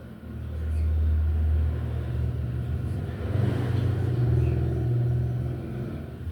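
A motor vehicle's engine rumbling past, swelling about half a second in and fading near the end, its pitch shifting midway.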